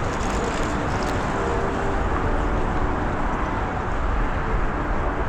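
Steady city road traffic noise with a low rumble, with faint engine tones of passing vehicles.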